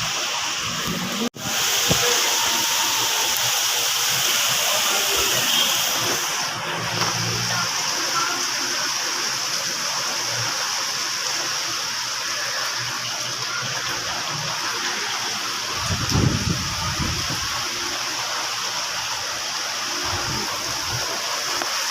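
Heavy rain pouring steadily, with water gushing and splashing, and a brief low rumble about sixteen seconds in.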